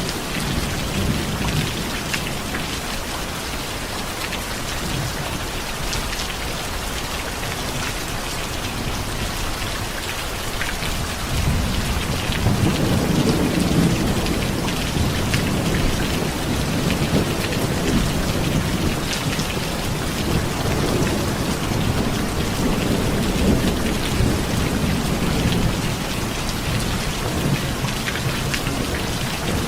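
Steady heavy rain falling, with low rolling thunder rumbling underneath; the rumble fades away early on and builds again about halfway through.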